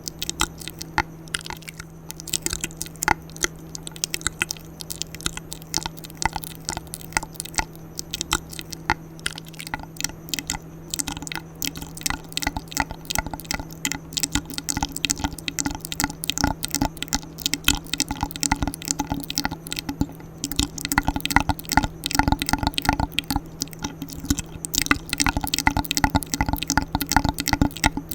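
Close-miked ASMR mouth sounds: rapid wet clicks and smacks, growing denser and louder after about 17 seconds, over a steady low hum.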